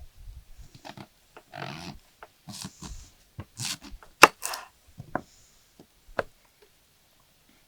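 Kitchen work: an irregular string of knocks and short scrapes of utensils, with one sharp knock about four seconds in.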